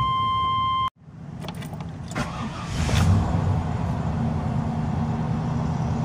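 A steady tone stops about a second in. Then the Silverado's 454 (7.4 L) big-block V8 starts, swells briefly about three seconds in, and settles into a steady idle.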